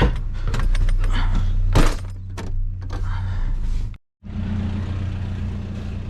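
Scattered knocks and clicks of things being handled and knocked together over a steady low hum, with a brief cut to silence about four seconds in.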